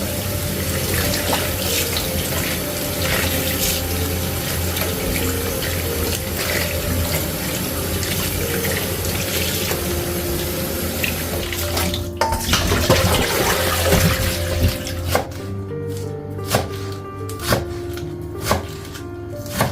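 Kitchen tap running water into the sink for about twelve seconds. After the water stops, a knife starts chopping on a cutting board at about one stroke a second. Soft background music plays throughout.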